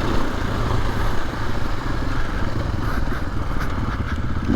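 KTM 500 EXC dirt bike's single-cylinder four-stroke engine running steadily, a dense low-pitched thrum.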